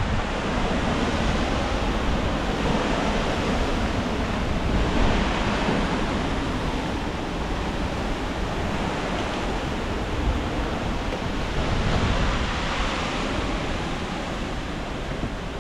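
Strong gusty wind rushing through bald cypress trees and garden foliage, swelling about five seconds in and again around twelve seconds, then easing near the end, with low wind rumble on the microphone.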